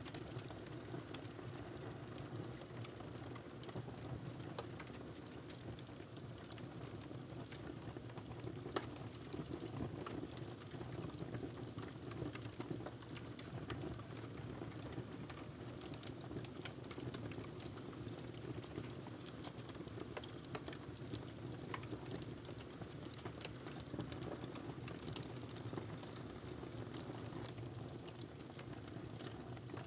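Crackling wood fire in a fireplace: irregular small crackles and pops over a steady low rumble.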